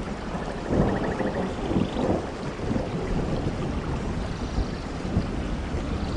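Steady rain falling with a low rumble of thunder underneath, and faint bird trills above the rain.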